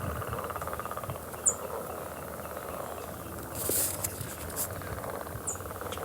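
A chorus of frogs trilling steadily in a spring marsh. Two short, high chirps sound about a second and a half in and again near the end, with a brief rush of noise about halfway through.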